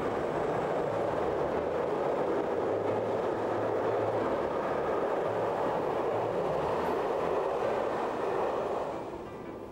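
Passenger train of coaches passing close by on an electrified mountain main line: a steady rumble of wheels on rails, fading away about nine seconds in.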